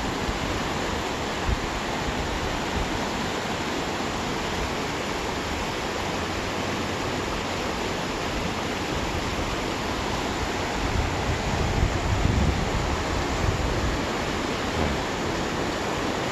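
Steady wind rushing over the microphone, with low buffeting gusts from about eleven to thirteen seconds in.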